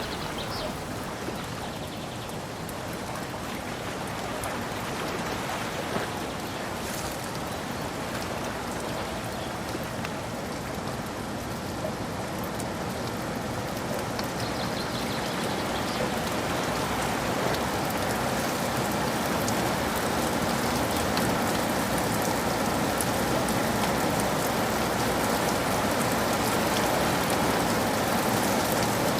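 Steady rain falling, with scattered drops ticking on a surface; it grows gradually heavier toward the end.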